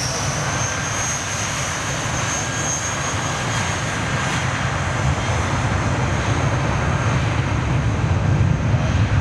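Airliner engines running loud: a high whine rises and then holds steady for the first few seconds, over a broad roar and a deep rumble that grows toward the end.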